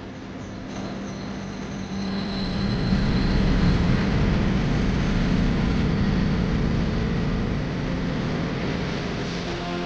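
Subway train running past, a dense rumble that swells to its loudest about three seconds in and then slowly dies away, with a faint high squeal near the start.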